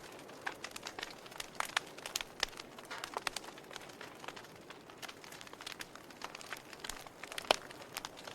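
Wood fire burning in a fireplace, crackling with irregular sharp pops over a soft steady hiss; one louder pop about seven and a half seconds in.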